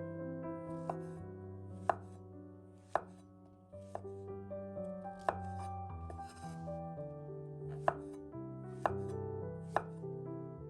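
Kitchen knife chopping on a cutting board: single sharp strikes about once a second, unevenly spaced, over soft background piano music.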